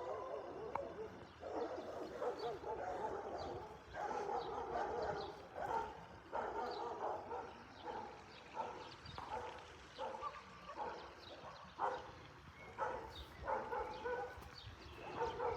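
A dog barking repeatedly, in a quick run of short calls.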